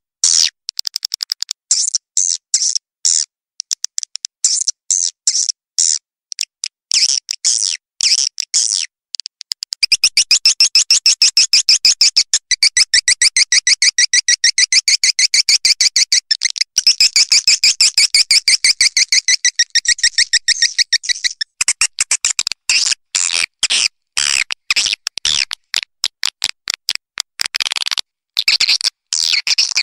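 Swiftlet calls: fast, high chattering chirps in quick runs, merging into a dense unbroken trill from about a third of the way in until about two-thirds through, then breaking back into separate chirp runs.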